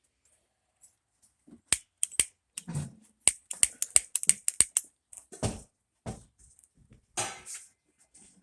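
A run of sharp clicks and light knocks, coming quickly and irregularly in the middle, followed by a few duller scuffs, from tools or parts being handled.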